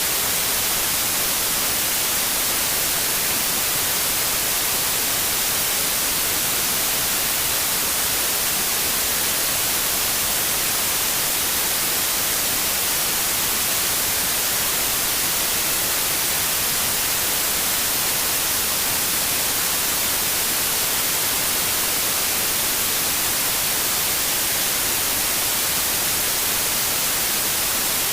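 Steady synthetic white noise: an even, unchanging hiss, strongest in the highs.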